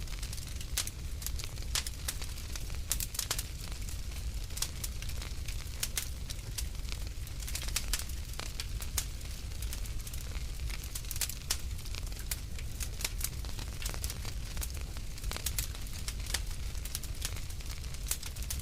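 Wood fire crackling in a fireplace: irregular sharp snaps and pops over a low steady rumble of the burning.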